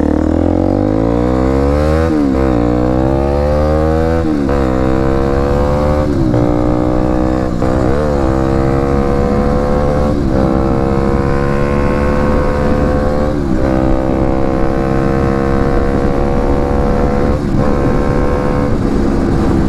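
Motorcycle engine pulling away and accelerating up through the gears: the revs climb and drop back at each of several gear changes, settling into a steadier cruise in the later part.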